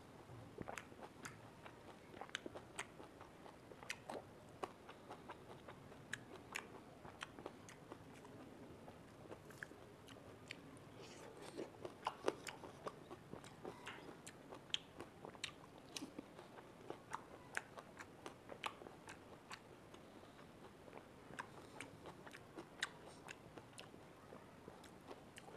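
Quiet close-miked chewing of juicy peeled orange segments, with many short, sharp wet mouth and lip clicks at irregular intervals.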